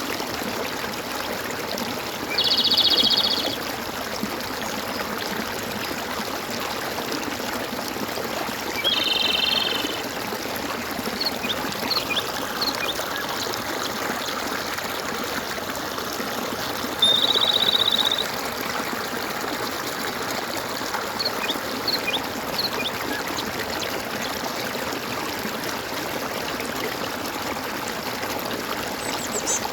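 Stream water gurgling and trickling steadily, with three loud buzzy trilled calls about a second long from a bird or frog and a few faint short chirps.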